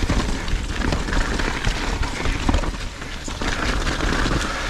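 Mountain bike rolling fast down a rough, rooty trail, heard from the rider's action camera: a steady rumble of tyres on the ground and wind on the microphone, with many small rattles and knocks from the bike over bumps.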